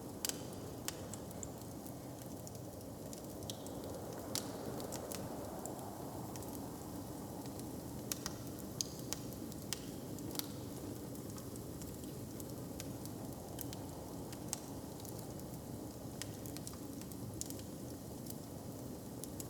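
Wood fire crackling: scattered sharp pops and snaps over a steady low background rumble.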